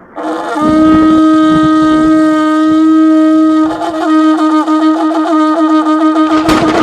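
Shofar blown in one long, loud, steady note. From about four seconds in its upper tones break into a rapid fluttering warble while the base note holds, and a fresh blast starts near the end.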